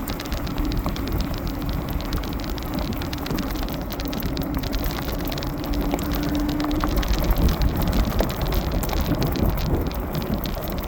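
Philodod Forester dual-motor fat-tire e-bike riding at speed: wind rushing and buffeting on the microphone over tyre noise, with a steady motor whine that is strongest about halfway through.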